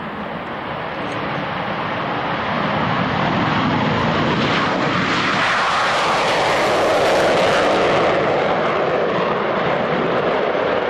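Panavia Tornado's twin Turbo-Union RB199 jet engines at full afterburner on the takeoff run. The noise grows louder over the first few seconds, is loudest and highest-pitched about six to eight seconds in, then eases slightly.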